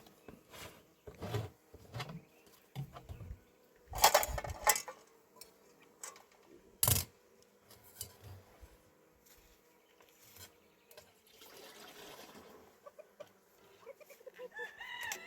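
Irregular knocks and clatters of hard objects, loudest about four and seven seconds in. A chicken calls near the end.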